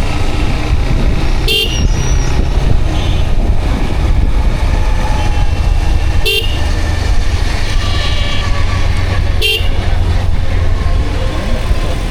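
Motorcycle running along the road, a steady low rumble of engine and wind on a helmet-mounted camera, with a vehicle horn giving three short beeps a few seconds apart.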